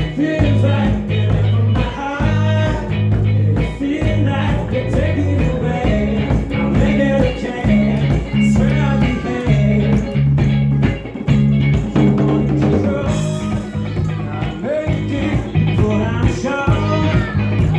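Live blues-rock trio playing loudly: guitar over a steady bass line and drums, with some singing.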